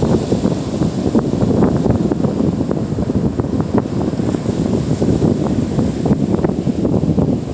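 Wind buffeting the microphone on an open beach, a steady low rush that swells and falls without a break, with surf on the Gulf of Mexico shore mixed into it.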